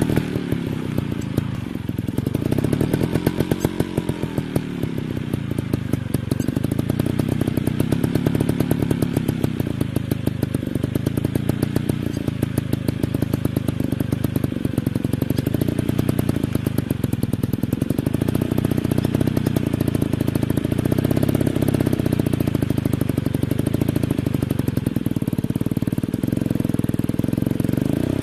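Dirt bike engines running hard off-road, revving up and falling back again and again, with more than one bike's pitch rising and falling at once.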